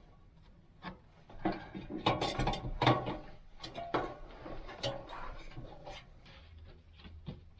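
Irregular wooden knocks, clatters and scrapes of lumber being handled during shed construction, starting about a second in.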